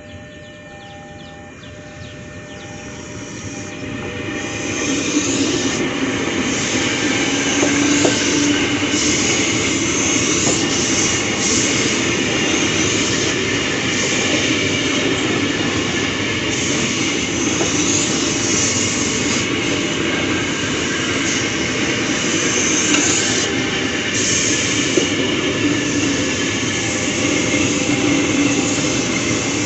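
A train passing on the rails. The running noise of wheels on track builds over the first few seconds, then stays loud and steady as the cars go by.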